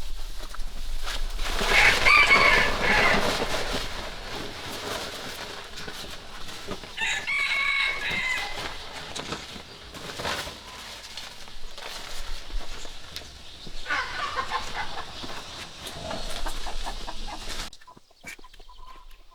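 Domestic rooster crowing three times, several seconds apart, the first call the loudest.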